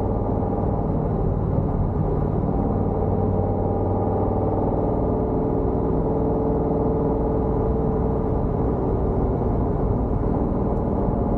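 Exhaust of a cammed C5 Corvette Z06's LS6 V8, with headers and Borla ATAK mufflers, running loud and steady at one engine speed with no revving.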